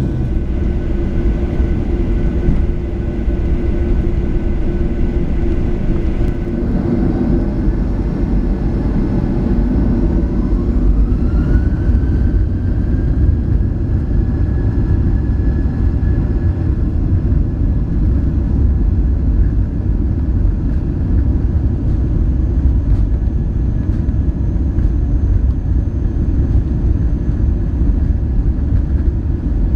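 Boeing 737-700's CFM56 turbofan engines spooling up, a rising whine about seven seconds in that levels off at a steady high pitch over a heavy, constant rumble, as when thrust is set for the takeoff roll.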